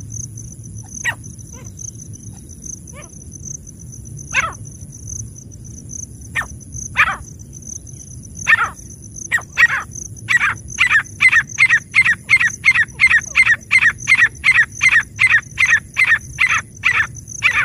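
Francolin (teetar) calling: a few separate harsh notes at first, then from about ten seconds in a fast, even run of loud calls, two to three a second, as used to lure wild francolins.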